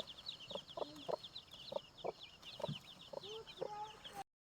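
Birds calling: a dense, rapid run of high chirps with short, lower calls beneath. The sound cuts out for about half a second near the end.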